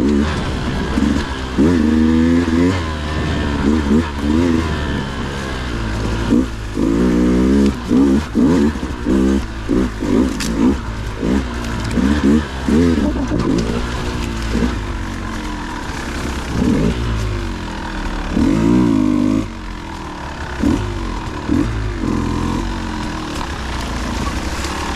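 Dirt bike engine revving up and falling back again and again in short blips, as the throttle is worked over rough, rocky trail.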